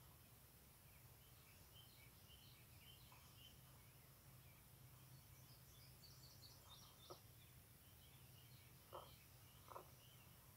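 Near silence with faint birds chirping, and three brief, slightly louder sounds in the second half.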